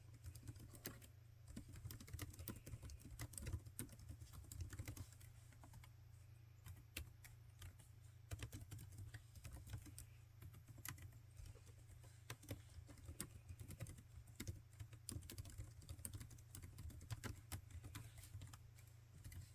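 Laptop keyboard being typed on: quick, irregular key clicks in runs, with a couple of short pauses.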